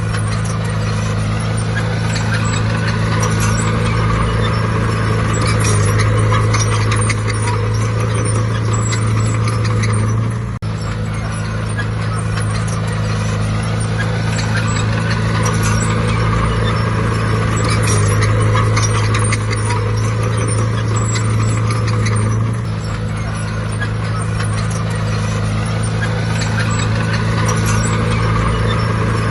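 Heavy earthmoving machine's diesel engine running steadily under load, with metallic clatter over it and a brief break about ten seconds in.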